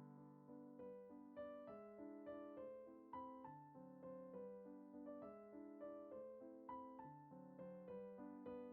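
Quiet background piano music: a gentle melody of single notes over lower chords.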